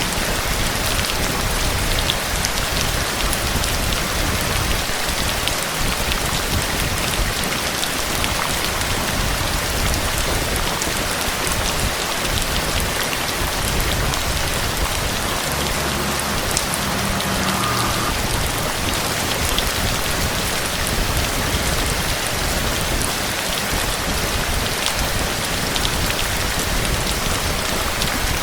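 Steady heavy rain falling, with a dense patter of individual drops striking a surface.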